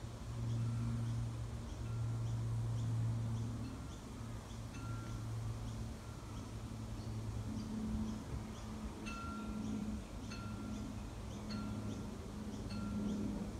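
A bird repeating a short, clear note about once a second, louder in the second half, over a low steady hum.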